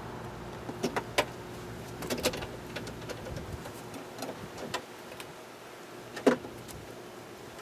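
Light metallic clicks and knocks of a hand tool loosening the two window regulator screws inside a 2009 Ford Expedition's front door, with one sharper knock about six seconds in.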